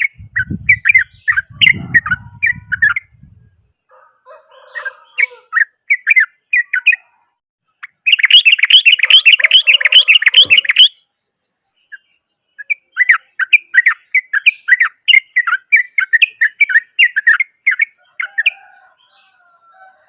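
Yellow-vented bulbul (trucukan) singing loudly in runs of fast, rough chattering notes. The densest unbroken trill comes about eight to eleven seconds in, and another long run follows from about thirteen to eighteen seconds.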